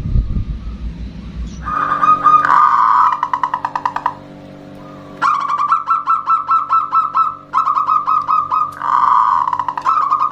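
Zebra dove (perkutut) cooing: bursts of rapid, staccato notes at one steady pitch, starting about two seconds in, pausing briefly, then running again from about five seconds on. A low rumble is heard in the first second or so.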